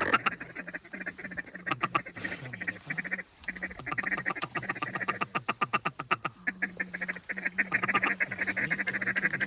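Duck calls blown in a fast, continuous chatter of quacks and feeding chuckles, aimed at circling ducks, with a short break a little past three seconds in.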